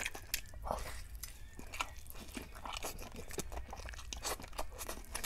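A person biting into and chewing a mouthful of chicken biryani with a piece of chicken, eaten by hand: a run of short, irregular mouth clicks and smacks.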